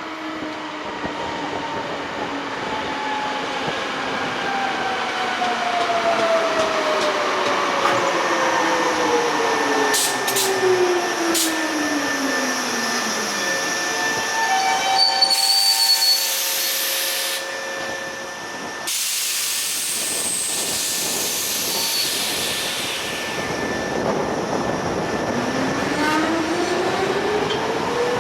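Resistance-controlled Hankyu Kyoto Line electric train's traction motors and gears whining down in pitch as it brakes to a stop, then two loud bursts of air hiss. Near the end the motor whine rises again as the train pulls away.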